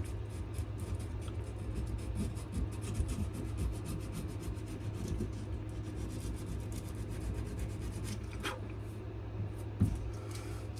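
Sandpaper rubbing back and forth by hand on a wenge and maple knife handle in quick, short scratching strokes, over a steady low hum. A single sharper knock comes near the end.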